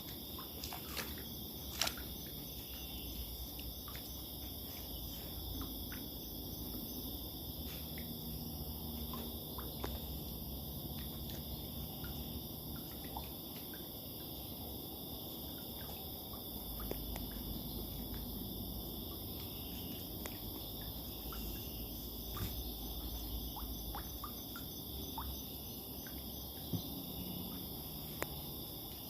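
Night chorus of insects trilling steadily in several high-pitched bands, with frogs giving scattered short calls throughout.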